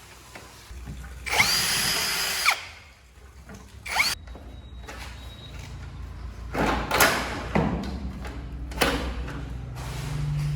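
Power drill or driver running in several short bursts, its whine rising as it spins up and falling as it stops, over a low steady hum.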